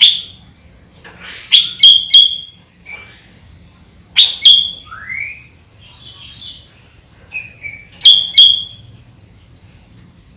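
Sooty-headed bulbul (kutilang) singing: loud, sharp whistled phrases in four bursts, with a short rising note about five seconds in.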